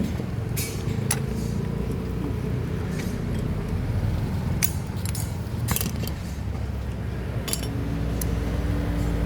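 Metal tools and motorcycle engine parts clinking and clicking as they are handled, a handful of sharp separate knocks over a steady low rumble; a steady hum joins in near the end.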